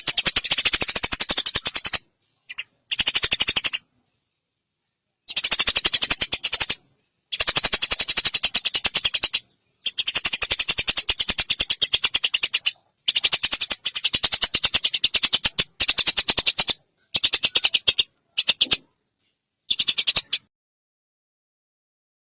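Eurasian tree sparrows giving their harsh, rapid chattering fight calls while squabbling, in a string of rattling bursts of one to three seconds broken by short pauses.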